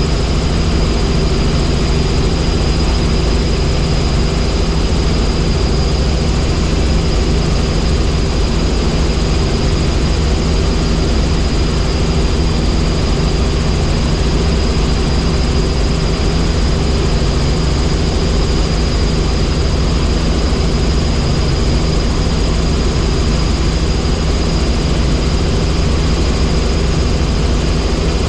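Helicopter engine and rotors running steadily in flight, a loud, even drone.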